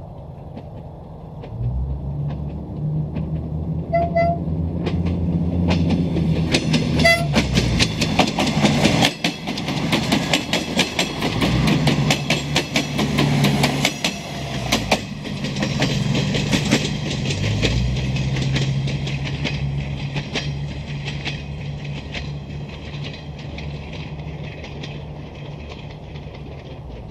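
Renfe Media Distancia diesel passenger train approaching with its engine humming, sounding two short horn blasts about four and seven seconds in. It then passes close with a fast run of wheel clicks over the rail joints, and its engine note drops as it recedes and fades.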